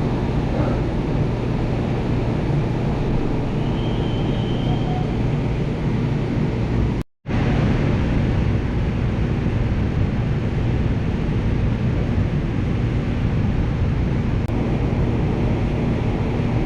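Steady running rumble of a light-rail train heard from inside the car, with a faint steady hum over it. The sound cuts out for a split second about seven seconds in.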